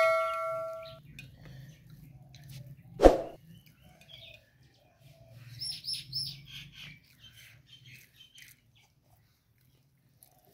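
Small birds chirping in short quick runs of high calls about halfway through. A metallic ringing note fades out at the start, and there is one sharp knock about three seconds in.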